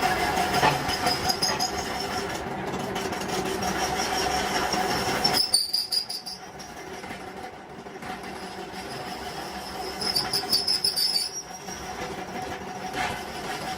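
High-pitched metal-on-metal squealing over a steady mechanical hum, from work on a steel truck wheel rim. The squeal drops back about five and a half seconds in and returns around ten seconds in.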